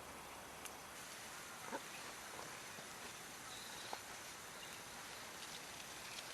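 Wood campfire crackling faintly over a steady hiss, with a few scattered sharp pops; the loudest comes just under two seconds in.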